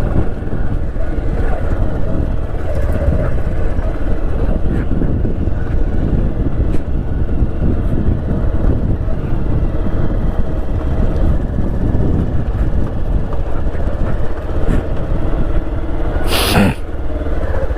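Motorcycle riding along with its engine running steadily and wind rumbling on the microphone. A brief loud rush of noise comes about a second before the end.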